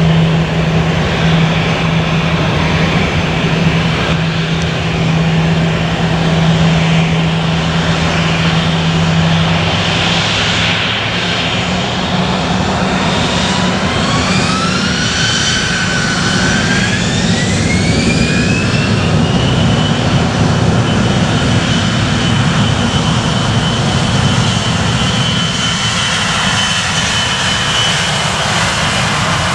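Jet airliner engines running loud, with a whine that rises in steps from about halfway through and then holds steady: the engines spooling up toward takeoff power.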